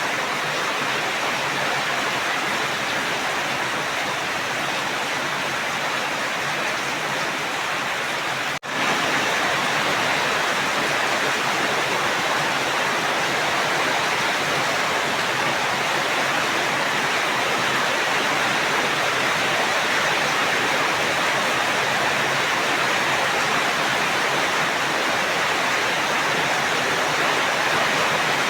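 Steady heavy rain, an even continuous hiss, with a split-second gap about nine seconds in, after which it runs slightly louder.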